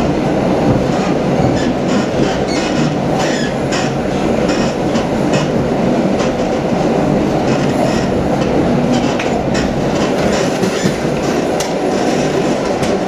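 Passenger train running along the track, heard from inside the carriage: a steady rumble of wheels on rails, broken by frequent irregular clicks and knocks from the wheels over the track.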